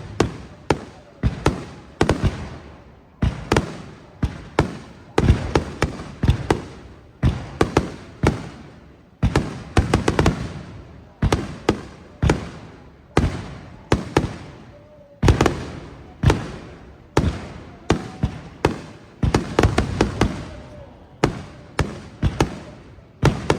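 Aerial fireworks shells bursting in a dense, rapid barrage, several bangs a second, each followed by a short echoing tail.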